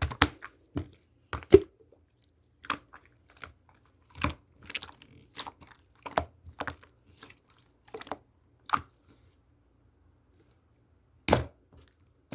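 Slime being squished and pressed by hand, making a run of irregular sticky clicks and pops. They pause for about two seconds before a louder cluster near the end.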